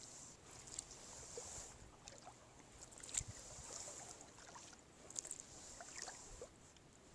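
Quiet kayak paddling on open water: soft swishes of the paddle blades that come and go every second or two, scattered drips and small ticks, and one sharper knock about three seconds in.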